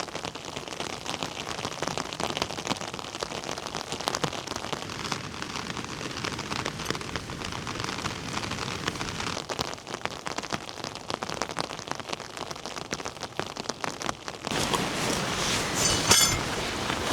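Heavy rain falling, with many individual drops pattering sharply on a surface close by. About fourteen and a half seconds in, the sound changes suddenly to a louder, denser, steadier rushing hiss.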